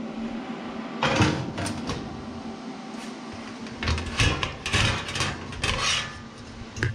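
Tacked-together pieces of sheet steel being handled and shifted: short scrapes and metallic rattles, one about a second in and a cluster from about four to six seconds in.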